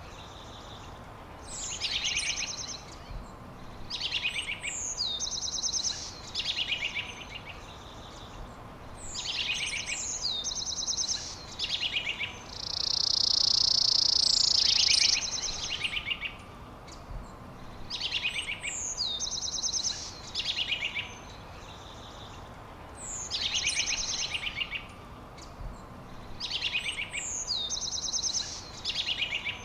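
Songbirds singing in short repeated phrases of quick trills and downward-sweeping notes, one every two or three seconds. About 13 seconds in, a steady high buzzing hiss lasts about two seconds and is the loudest sound.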